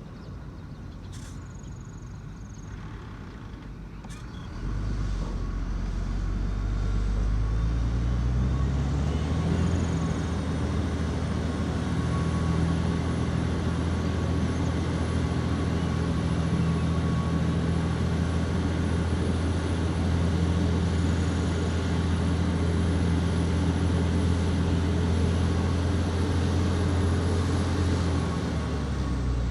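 Heavy diesel engine revving up about five seconds in, its pitch climbing for several seconds, then holding steady at high revs under load until it eases off at the very end.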